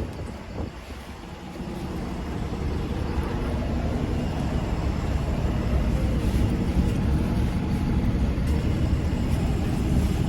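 Steady low rumble of a vehicle's engine, building up over the first couple of seconds and then holding.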